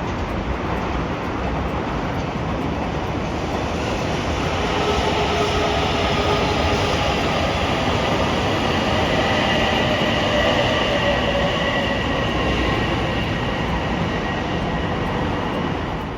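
Electric train running past, with a rumble and a whine of several tones over it that grows louder and is loudest about two-thirds of the way through.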